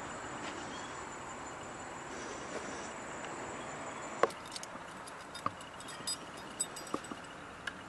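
Outdoor background hiss with a thin, steady high insect-like tone. The tone stops with a sharp click about four seconds in, and a few light scattered clicks follow, like keys and handling noise.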